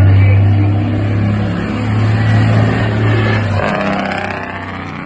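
Semi-trucks running at speed on the road: a steady low drone with road noise, which drops away about three and a half seconds in.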